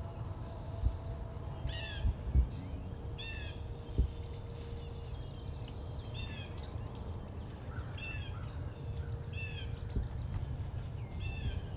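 Short bird calls repeated about six times over a steady low outdoor rumble, with a few sharp thumps in the first four seconds.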